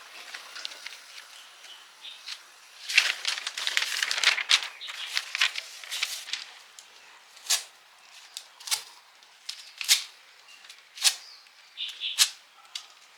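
Hand-tool work: a few seconds of rough scraping, then a string of separate sharp clicks and taps.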